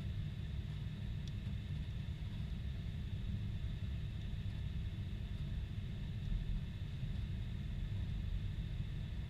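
Steady low rumble of a Boeing 747-400 airliner's engines and airflow, heard from inside the cabin, with an even hiss above it and no change in pitch or level.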